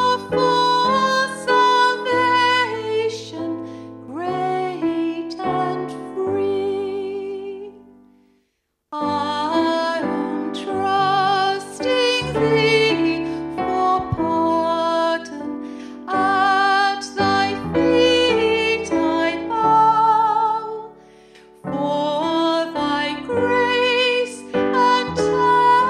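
A woman singing a slow song with vibrato over piano accompaniment. The music drops to silence for under a second about a third of the way in, then resumes.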